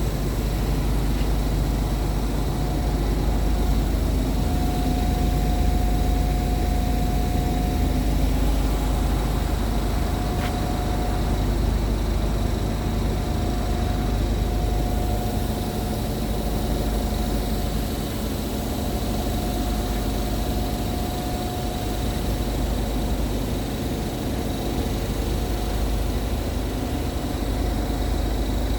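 Scania P truck's diesel engine running steadily with a deep, even rumble and no revving, with a faint steady whine above it.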